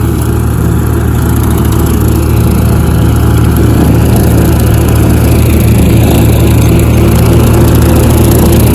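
Tractor engine running steadily while driving a topper that is mowing through brambles and ivy, growing a little louder about two and a half seconds in.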